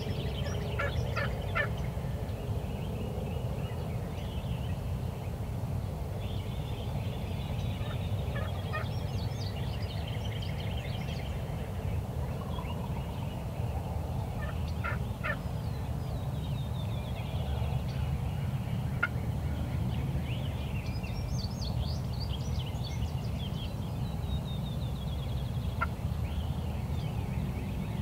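Wild turkey gobbling several times, each gobble a quick rattling burst, over a steady low rumble.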